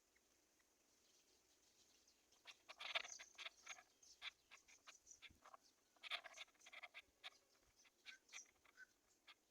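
Faint, irregular small taps and rustles, in a cluster about three seconds in and another about six seconds in, over a faint steady high hiss.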